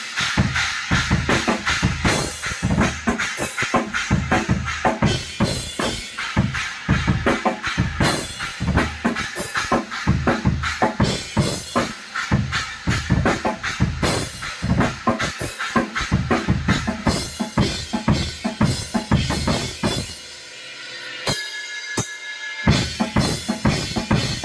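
Drum kit played in a jam: a steady run of kick, snare and cymbal hits, several a second. About twenty seconds in, the beat drops out for a couple of seconds under a ringing tone, then comes back.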